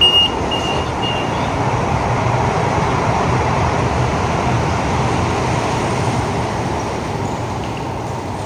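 High-speed train moving along an underground station platform: a steady rumble and rush that swells over the first few seconds and then slowly fades as it pulls away. In the first second, quick repeated high warning beeps of the closing doors.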